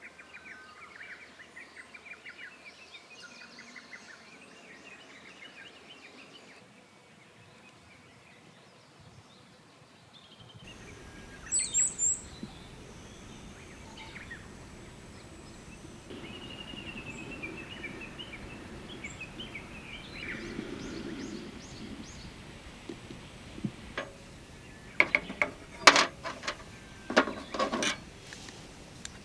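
Birds chirping and singing outdoors, followed by a handful of sharp knocks and clacks near the end.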